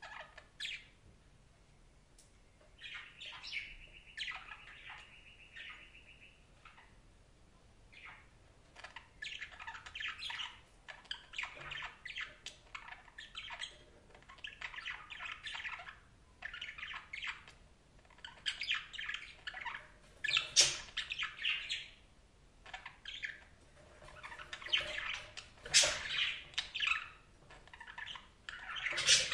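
Budgerigars chattering and warbling, in quick runs of chirps and squawks with short pauses between.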